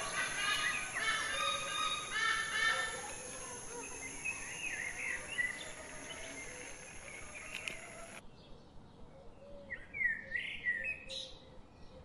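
Birds calling: a run of repeated harsh, rich-toned calls at first, then lighter scattered chirps. A steady high whine sits under the first part and stops abruptly at a cut about eight seconds in. A few sharp chirps follow after the cut.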